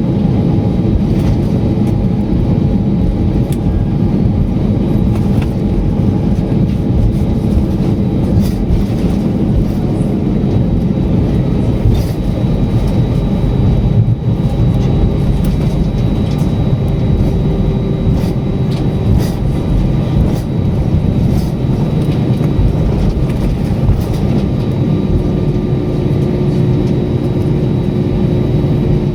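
Steady rumble of a moving vehicle, with faint humming tones that shift in pitch and scattered light clicks.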